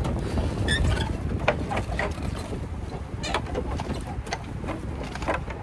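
A bird calling with a few short notes, over a steady low rumble.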